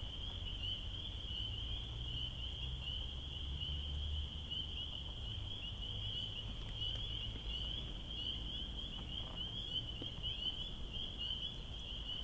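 Steady high-pitched trilling of insects, finely pulsing without a break, over a low rumble of wind on the microphone.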